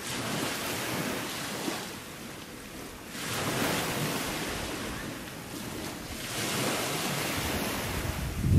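Sea waves washing in against the shore, rising and falling in about three swells. Wind rumbles on the microphone near the end.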